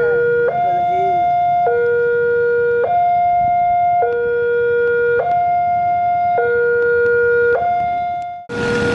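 Railway level-crossing warning alarm sounding: an electronic two-tone signal alternating high and low, each tone held about a second, warning of an approaching train. It cuts out briefly near the end and comes back over a broad rushing noise.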